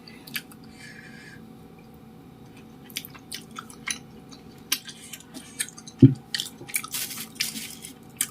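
Close-miked chewing of chewy tapioca-starch dumplings (cilok): wet mouth clicks and squelches, sparse at first and busier in the second half. A dull knock about six seconds in.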